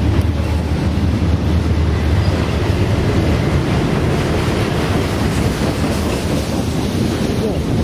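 Double-stack container freight train's well cars passing close by at speed, their wheels running steadily on the rails.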